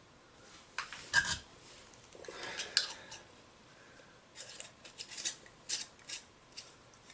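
Small metal-and-plastic handling noises from plumbing parts and tools being picked up and set down: a knock about a second in, some scraping, then a string of short clicks.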